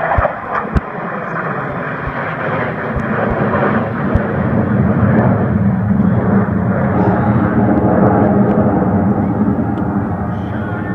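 Aircraft flying overhead, a steady engine noise that builds to its loudest about eight seconds in and then eases slightly. A few sharp knocks come in the first second.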